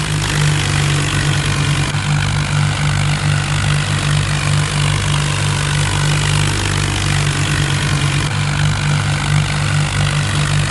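Diesel tractor engine running steadily, a loud, even low drone.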